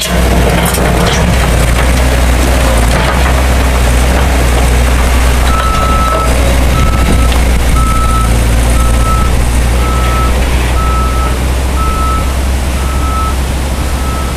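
Heavy equipment engine running loud and close, with its backup alarm starting to beep steadily about five seconds in, roughly one beep every 0.7 seconds.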